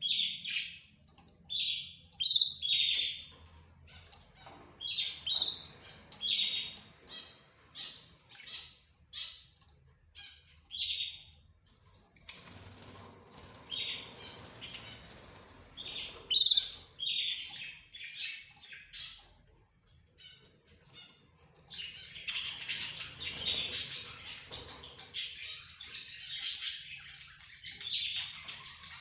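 Mixed cage birds (budgerigars, lovebirds, zebra finches and a canary) chirping and calling over one another in short, sharp, high calls. The calls thin out around the middle and become dense and overlapping in the last several seconds.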